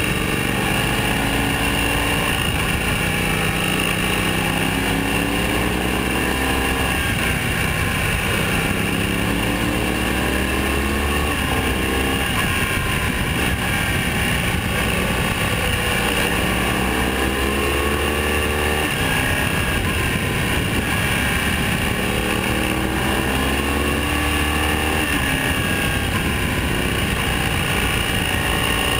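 Motorcycle engine pulling hard through the gears, its pitch climbing and dropping back at each shift in several runs. Steady heavy wind rush on a camera mounted at the front of the bike covers it throughout.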